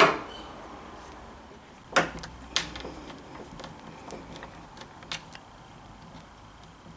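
Sharp clicks and knocks of a Kwikset lever door handle and its hardware being fitted onto the inside of a door lock. The loudest knock comes about two seconds in, with others near two and a half and five seconds and faint ticks between.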